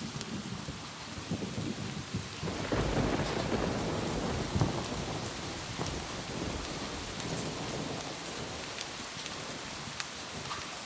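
Steady rain on a roof, with a low rumble of thunder that swells about two and a half seconds in and slowly dies away. Scattered sharp drips tick over the hiss of the rain.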